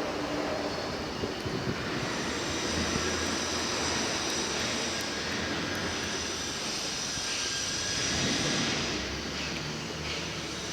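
A refuse compactor truck running: a steady mechanical noise with a low hum, joined about two seconds in by a high, steady whine.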